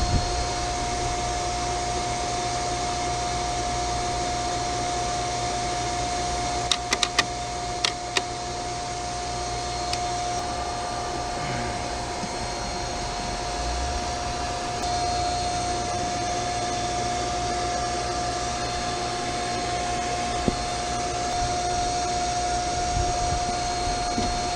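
Steady fan-like machinery noise with a constant high whine from HVAC equipment at a chiller's drive panel, with a few sharp clicks about seven to eight seconds in.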